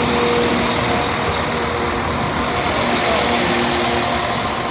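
Northern Class 195 diesel multiple unit passing close by over a level crossing: its underfloor diesel engine running and its wheels rolling over the rails give a loud, steady rumble with a faint hum running through it.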